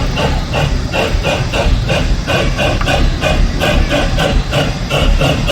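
Narrow-gauge 4-4-0 steam locomotive working under way, its exhaust chuffing in a quick, even rhythm of about five beats a second over the low rumble of the running train.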